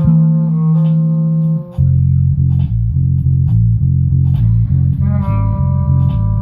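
Bass guitar and electric guitar jamming. The bass holds one low note, drops out for a moment about a second and a half in, then plays short repeated notes about three a second; a guitar chord rings at the start and again about five seconds in.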